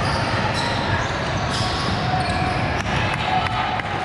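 Busy convention-hall volleyball tournament: echoing crowd chatter with several sharp ball hits and thuds in the second half, and a few short high squeaks or tones.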